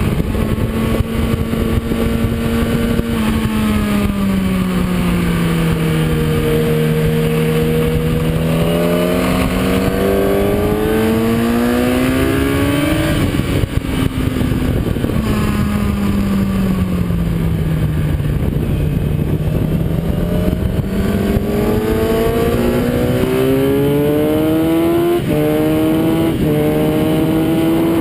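Kawasaki ZX-10R inline-four engine heard onboard at speed on a race track, its note falling as the bike slows and then rising as it accelerates, twice over. Steady wind rush runs underneath.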